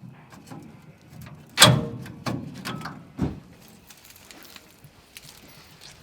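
Workshop knocks and light clicks and rattles from pulling the old wiring loom out of a 1966 VW bus: one loud knock about a second and a half in, a second knock a little later, and scattered small clicks.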